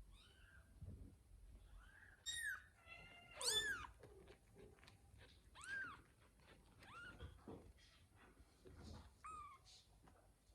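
Young kittens mewing: a handful of short, high, faint calls that rise and fall in pitch. The loudest comes about three and a half seconds in.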